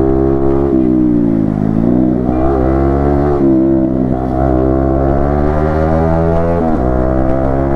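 Yamaha MT-15 V2's 155 cc single-cylinder engine and exhaust under way, its pitch rising steadily under throttle and then dropping sharply, about a second in and again near the end, as the revs fall.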